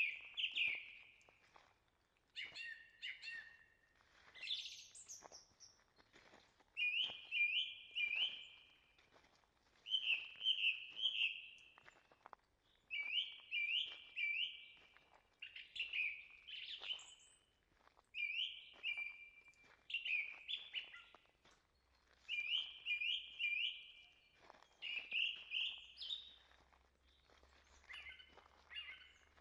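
A songbird singing, repeating a short phrase of three or four quick high notes about every three seconds, with faint footsteps on the forest trail underneath.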